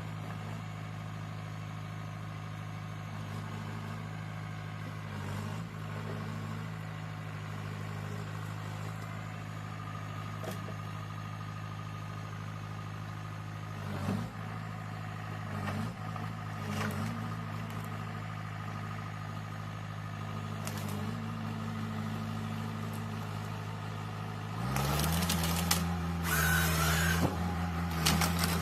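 Heavy machine's engine running steadily, with a few short knocks. About 25 seconds in it gets louder and busier, with a change in its pitch and more clatter.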